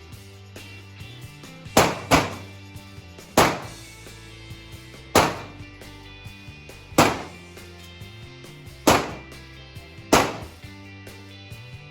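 Seven single gunshots at a shooting range, spaced one to two seconds apart, with two close together about two seconds in, each with a short ringing tail. Background music runs underneath.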